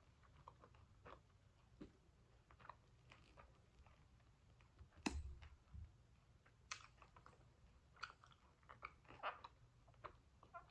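Faint, close-up chewing of crunchy oven-baked pizza, heard as soft irregular crunches and mouth clicks. There is one sharper crunch with a thump about halfway through.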